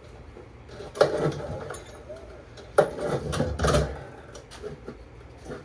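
Two pulls on the recoil starter of a Honda EM3000 generator, about two seconds apart: each a sharp yank followed by a brief rattling turn-over of the engine, which does not catch.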